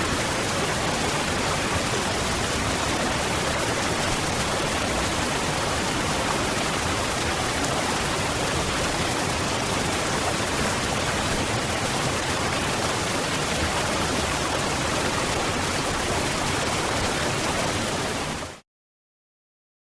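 Steady rush of a waterfall, an even roar of falling water that fades out quickly near the end.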